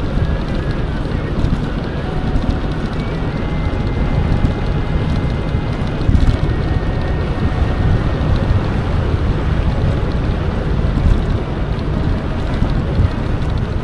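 Wind buffeting the microphone of a camera riding on an electric mountain bike, a steady deep rush, with a faint thin whine through the first half.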